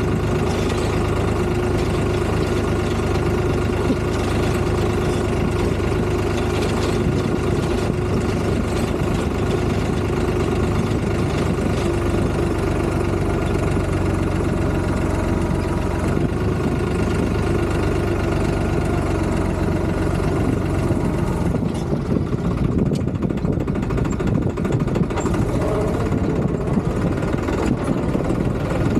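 Tractor engine running steadily. About twenty-two seconds in, the higher hiss drops away and the low engine note becomes rougher.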